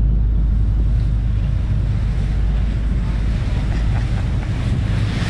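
Wind buffeting the microphone over a steady low rumble, with a louder gust of wind noise at the very end.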